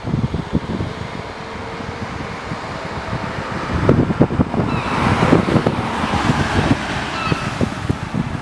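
Volkswagen Golf Mk4 V5 with a modified exhaust driving past, building to its loudest about five seconds in and then fading away. Wind buffets the microphone throughout.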